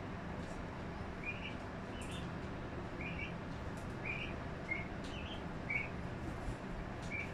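A small bird chirping in short, high notes, one every half second to a second, over a steady low background hum.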